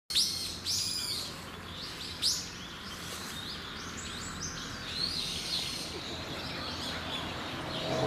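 Wild birds calling: a few loud, sharp high chirps that rise and fall in pitch in the first two and a half seconds, then a steady run of fainter, quicker high twittering.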